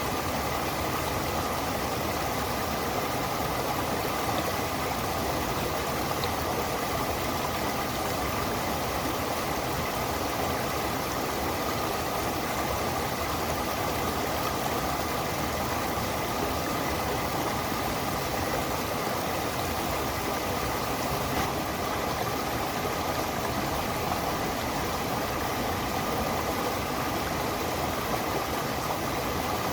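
Running water of a stream or small waterfall, a steady even noise that does not change.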